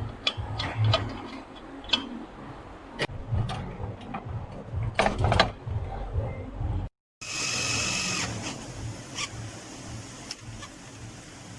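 Hand-tool work on exhaust parts: scattered metallic clicks and knocks. About halfway through there is a sudden cut to a steadier mechanical whirr with a faint high whine.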